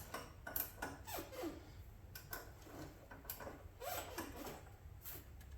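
Scattered light clicks and a few short squeaks from hand work on the motorcycle's parts.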